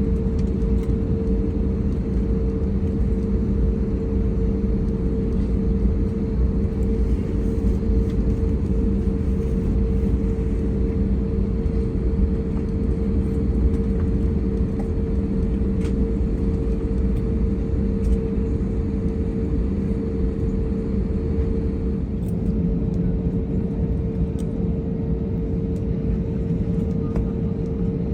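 Steady cabin noise of an Airbus A321neo taxiing after landing: a low rumble with a constant mid-pitched hum over it.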